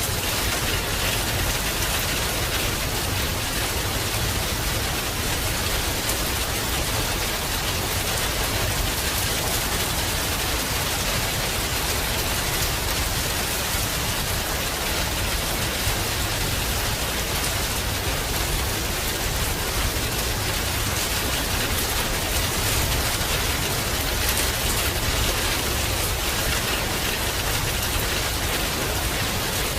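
Heavy rain falling steadily: an even, unbroken hiss of rain with a steady low rumble underneath.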